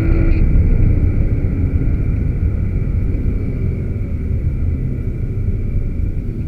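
Aston Martin V12 Vantage's V12 engine heard from inside the cabin at track speed. Its steady higher engine note drops away about half a second in, leaving a low rumble of engine and road noise that slowly fades as the car comes off the throttle.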